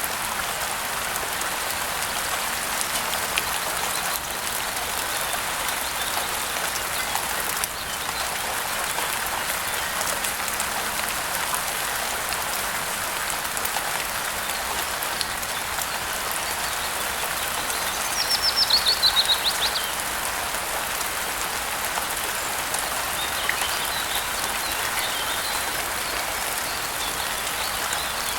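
Steady rain falling, with a bird breaking in about two-thirds of the way through with a quick trilled call that steps down in pitch, then a few fainter chirps.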